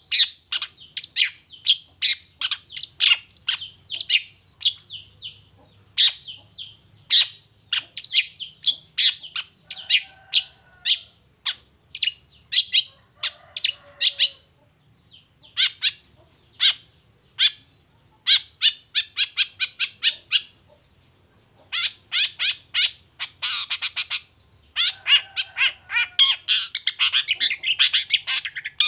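Long-tailed shrike (cendet) singing loudly: fast runs of sharp chattering notes and rapid trills, with a brief pause a little past two-thirds of the way through.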